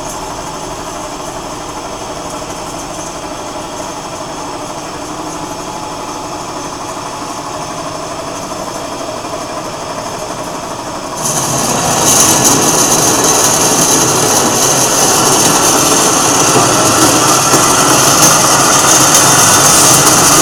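Sabi PBS320A CNC band saw running with a steady machine hum. About eleven seconds in, a much louder grinding noise with a strong high hiss sets in and holds.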